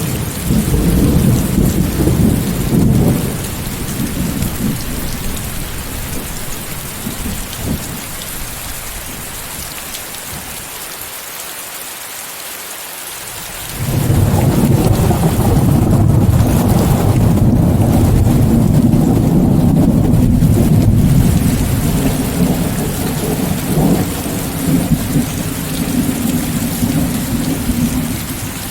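Steady heavy rain with rolling thunder. A low rumble at the start dies away, then about halfway through a loud thunder roll comes in suddenly and rumbles on for several seconds before easing off.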